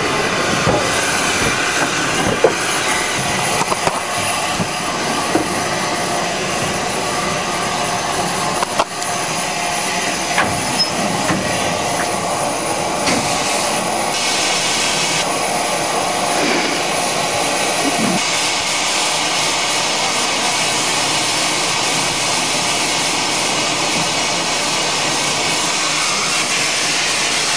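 Steam locomotive at a station platform with a steady loud hiss of escaping steam and a few sharp metallic clanks.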